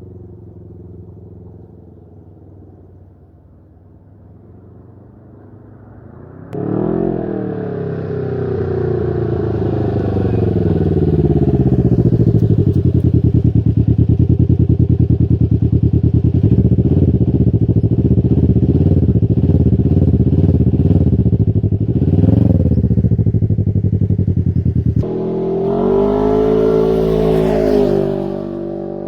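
Can-Am Ryker 600's twin-cylinder engine running through a Brannon King muffler with a silencer baffle in the header pipe. It is quieter at first, then about six seconds in it gets suddenly much louder and pulls away, its pitch dropping and climbing again as it shifts. It runs steadily under load, with a short rev later on and another climb in pitch near the end.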